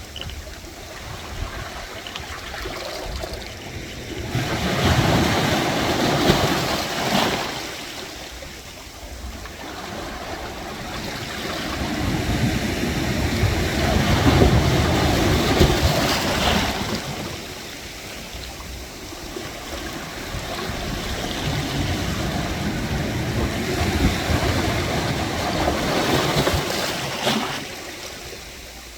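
Sea waves surging in among concrete wave-dissipating blocks and draining back out. The wash swells and fades in long surges about every nine or ten seconds, with brief sharper splashes at the peaks.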